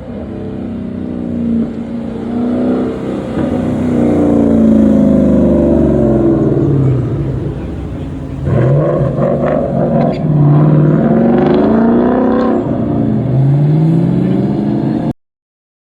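A car engine revving up and down several times, its pitch rising and falling repeatedly. The sound cuts off abruptly near the end.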